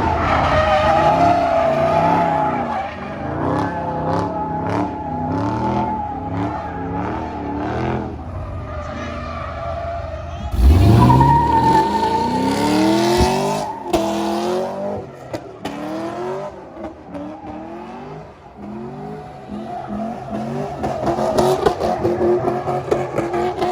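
Car engine revved hard again and again, its pitch climbing and dropping in quick cycles, over a steady high tire squeal; about ten seconds in one rev climbs sharply and loudly.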